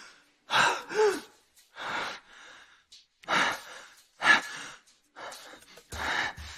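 A woman sobbing in gasping breaths, about one ragged breath a second, some with a short wail. Low music comes in near the end.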